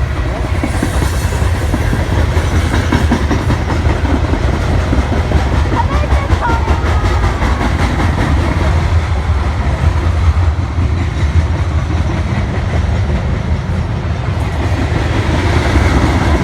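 A train passing close by: a steady, loud rumble with a fast, continuous clatter of wheels on the rails.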